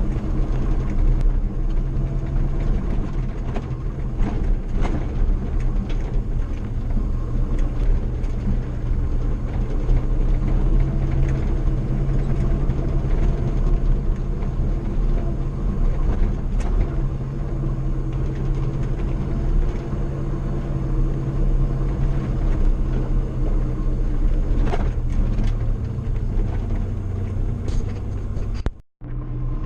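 Old pickup truck driving on a dirt road: steady engine and road hum, with scattered short knocks and rattles. The sound drops out for a moment about a second before the end.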